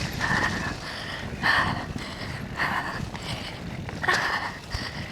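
A mountain-bike rider breathing hard, about one breath a second, over a low rumble of tyres and wind on the mic.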